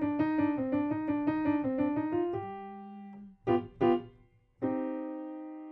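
Piano, right hand alone: a quick run of connected notes moving back and forth, then a brief held note, two short staccato notes about three and a half seconds in, and a final held note that rings and fades.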